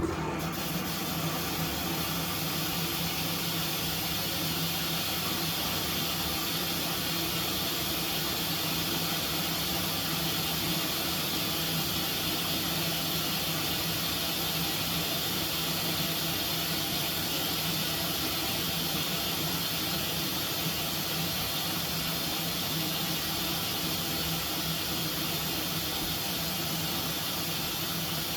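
Dishwasher wash pump starting abruptly and running steadily, water spraying inside the tub as a constant hiss over a low motor hum.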